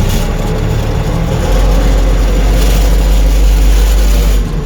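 Heavy vehicle engine running with a deep, steady rumble that grows louder about a second and a half in and eases off just before the end.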